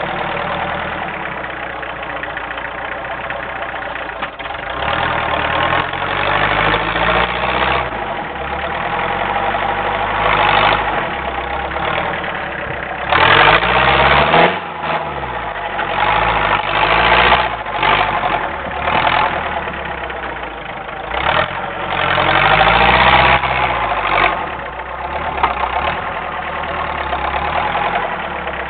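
Homemade doodlebug tractor's engine running under load while plowing heavy wet snow, revving up and falling back several times, with the loudest surges about halfway through and again toward the last third.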